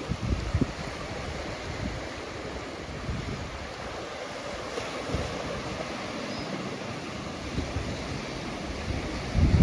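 Ocean surf washing on a beach in a steady rush, with wind buffeting the microphone in low gusts at the start and again near the end.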